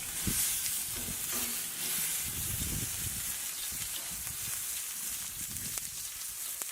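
Wine-marinated steak sizzling on a grill, a steady hiss.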